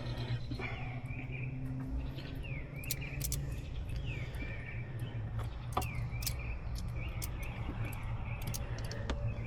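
Birds chirping, a run of short falling chirps over a steady low hum, with scattered sharp clicks.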